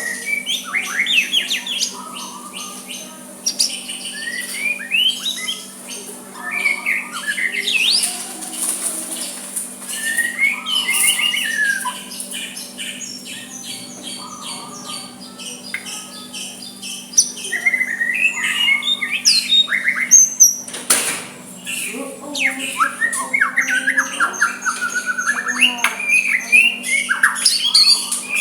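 White-rumped shama (murai batu) singing softly: a varied string of whistled phrases with notes sliding up and down and quick trills, coming in bursts with short pauses between them. A steady low hum runs underneath.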